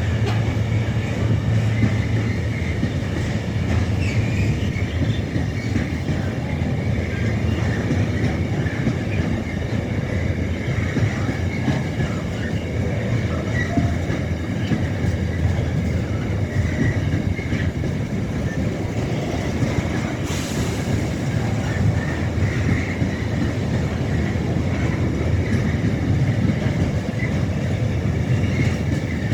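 Freight train of container wagons rolling past, a loud steady rumble with wheels clacking over the rail joints.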